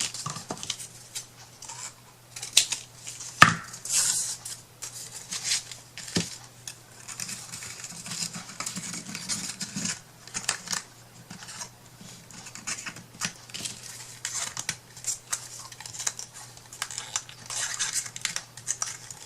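Irregular small clicks, taps and scratches of craft materials and hand tools being handled on a work surface, with one sharper knock about three and a half seconds in. A low steady hum runs underneath.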